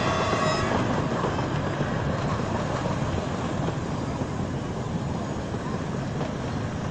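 Passenger train coach in motion, heard through an open window: a steady rushing noise of wheels on track and passing air, easing slightly in level.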